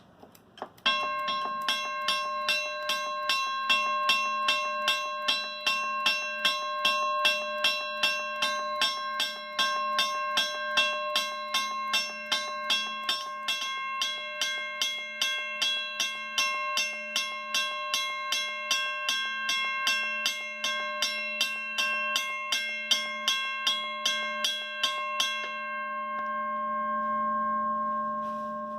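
Western Cullen Hayes electromechanical railroad crossing bell ringing: its hammer strikes the gong in a fast, even rhythm, and the gong keeps ringing and dies away after the striking stops near the end. The owner says the bell still rings weakly because its hammer and contacts are only partly repaired.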